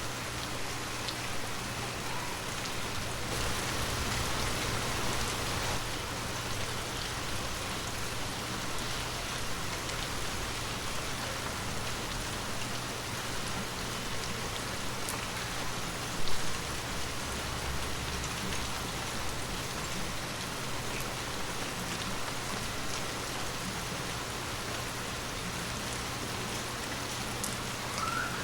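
Steady heavy rain falling, an even hiss with no let-up, and one louder knock about sixteen seconds in.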